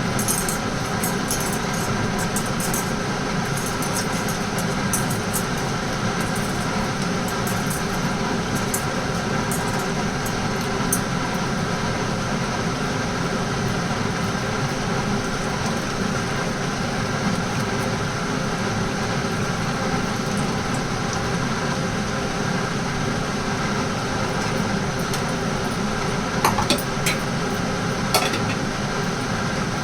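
Steady mechanical hum from kitchen cooking, with fine crackling like food sizzling in the first part and a few sharp clinks near the end.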